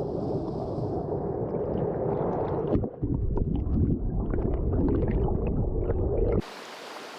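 Mountain-stream water rushing and gurgling close to the microphone: a deep, muffled rush with crackling splashes. It breaks off briefly about three seconds in and cuts off abruptly near the end, where a thinner, brighter water hiss takes over.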